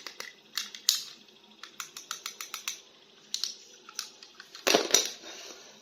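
Plastic toy action figure and its packaging being handled: a run of quick sharp plastic clicks and taps, then a louder clatter near the end.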